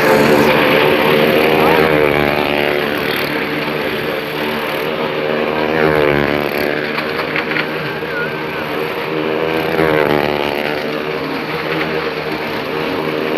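Engines of stunt vehicles in an automobile circus show running hard, their pitch rising and falling in repeated waves about every four seconds.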